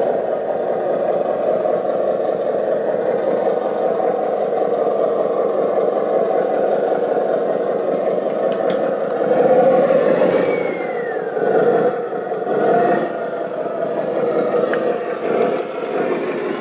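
Radio-controlled construction models at work in sand: a steady mechanical whirring and rattling from their drives, with a pitch that falls off about ten seconds in.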